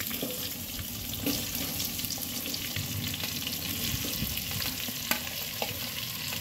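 Stuffed okra frying in hot oil with cumin seeds, sizzling and crackling steadily as it is pushed in from a plate with a spoon, with a few sharper knocks.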